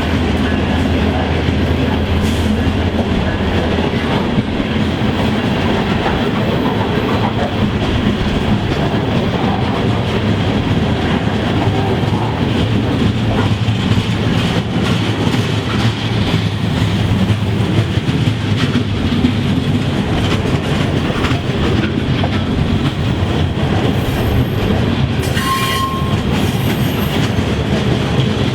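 A train rolling past close by, loud and steady, its wheels clicking over the rail joints. Near the end there is a brief high squeal.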